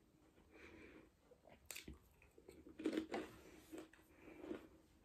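A person chewing and biting food with the mouth close to the microphone: irregular wet smacks and small crisp clicks, the loudest bites about three seconds in.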